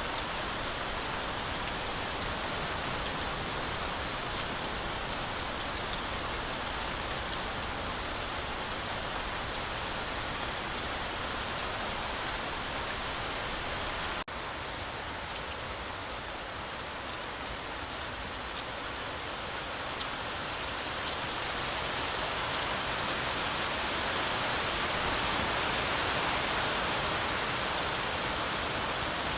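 Heavy rain falling steadily through forest trees, a dense, even hiss of countless drops. The level dips sharply for a moment about halfway through, then the rain swells a little louder near the end.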